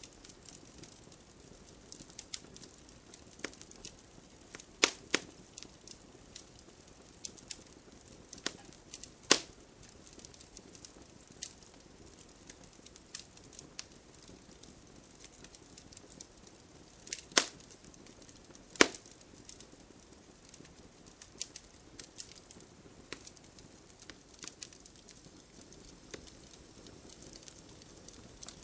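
Wood fire crackling in a fireplace: irregular small pops and snaps over a soft hiss, with a few much louder snaps along the way.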